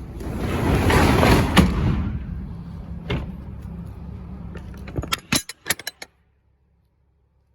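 A rushing rattle that swells for about a second and a half, with a sharp knock at its peak, over a steady low hum. A second knock follows, then a quick run of clicks and knocks before the sound cuts off about six seconds in.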